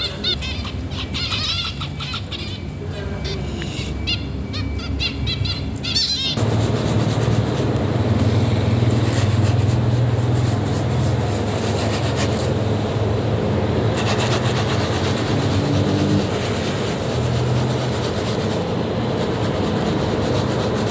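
Birds chirping in rapid, short, high calls. About six seconds in, the sound cuts abruptly to a louder, steady mechanical rumble with a low hum.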